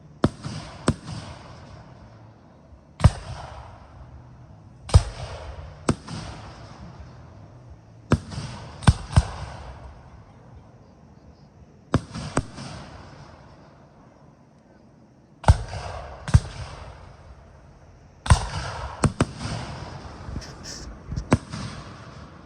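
Aerial fireworks shells bursting: more than a dozen sharp booms at uneven gaps of about one to three seconds, some in quick pairs, each trailing off over a second or two.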